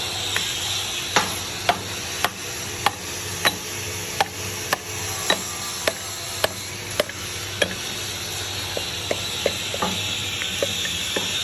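Evenly repeated sharp taps, nearly two a second, some with a brief high ring, over a steady hiss and low hum.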